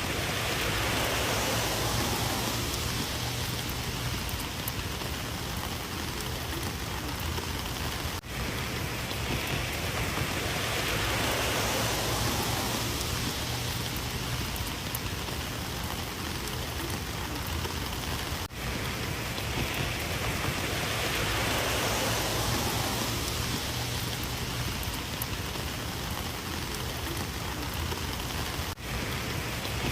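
Heavy rain falling steadily. There is a brief dip in level about every ten seconds.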